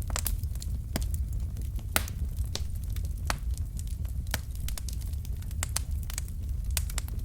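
Wood fire in a fireplace crackling: irregular sharp pops and snaps from the burning logs, several a second, over a steady low rumble of the flames.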